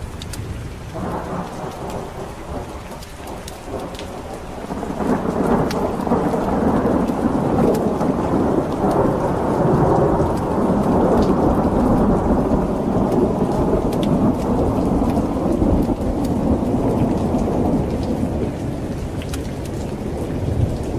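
Rolling thunder over steady rain: the rumble builds about a second in, swells loud from about five seconds in, and eases off near the end.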